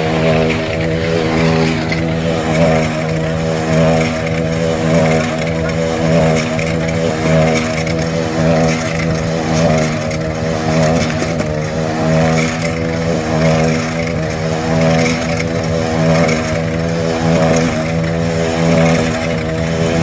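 Motorcycle engines running continuously at a steady pitch, with the loudness swelling and easing slightly about once a second.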